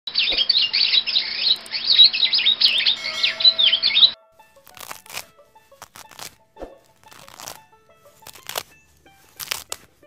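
Rose-ringed parakeets chattering in rapid, high, sliding chirps and squawks that cut off abruptly about four seconds in. After that come scattered crisp tearing and crunching sounds of deer cropping grass.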